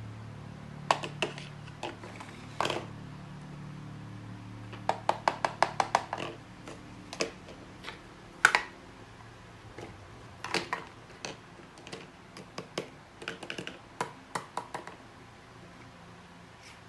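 Irregular sharp clicks and taps, hard small objects knocking together, including a quick run of about ten clicks around five seconds in, over a low steady hum.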